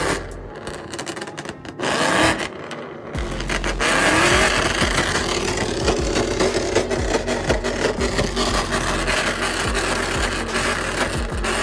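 Car engine revved hard. Its pitch climbs as it winds up about two and three seconds in, then it holds a loud, continuous run at high revs.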